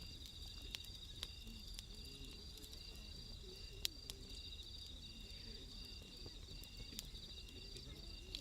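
Crickets and other night insects chirring in steady pulsing trills, with scattered sharp crackles and pops from a burning wood fire; the loudest pop comes about four seconds in.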